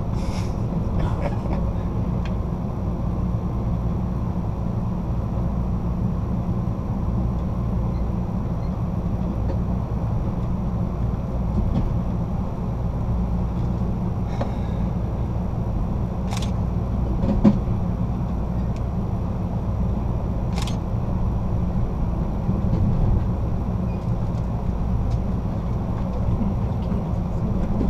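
Passenger train running along the track, heard from its rear car: a steady low rumble with a few sharp clicks and knocks from the wheels and rails.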